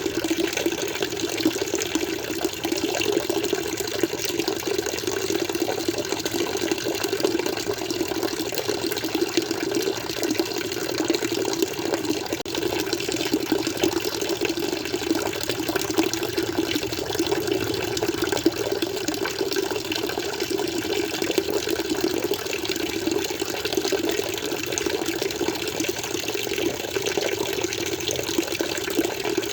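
Flowing water running steadily, a continuous splashing rush with no change or break.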